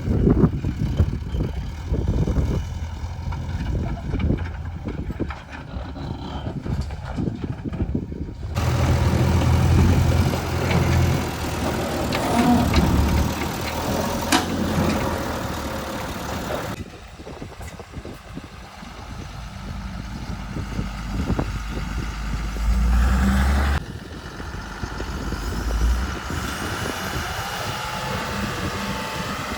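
Heavy diesel machinery of a JCB 3DX backhoe loader and a loaded tipper truck running and revving at work. The engine sound changes abruptly a few times.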